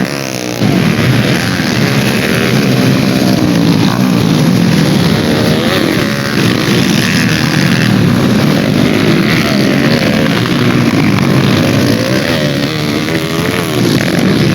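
Several dirt-bike engines revving together, their pitch rising and falling as the bikes accelerate and ease off.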